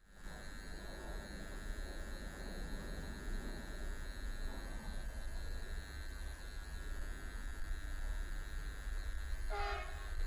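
Freight train running by with a steady low rumble and a constant high tone, and a short horn blast near the end.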